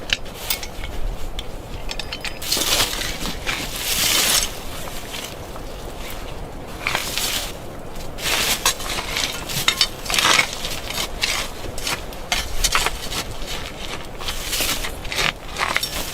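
Irregular knocks and clinks, with spells of crunching and scraping.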